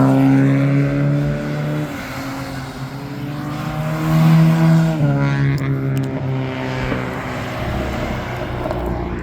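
A car engine being revved: its pitch drops back toward idle right at the start, holds, climbs in a second rev about four seconds in, and falls back again about a second later to a steady idle.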